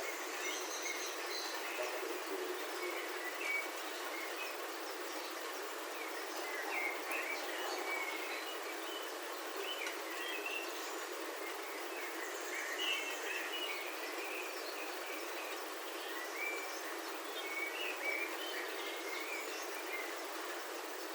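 Steady hiss of rain falling on a roof, heard from indoors, with birds chirping outside in frequent short calls.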